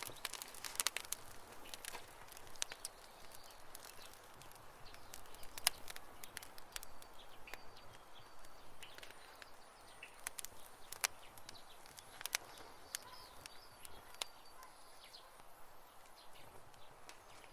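Campfire burning with irregular crackles and sharp pops over a soft steady hiss, a few pops standing out louder.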